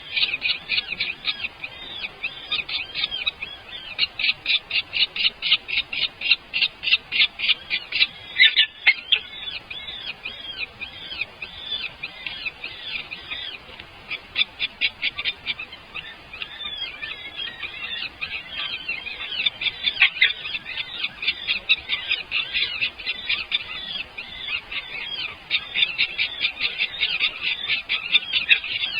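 Nestling birds begging: rapid high-pitched chirps, about five a second, in runs with brief pauses.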